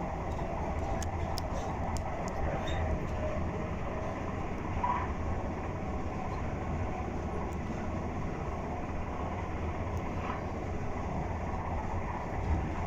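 Cabin noise of a Class 444 Desiro electric multiple unit train in motion: a steady rumble of wheels and running gear, with a few faint ticks in the first few seconds.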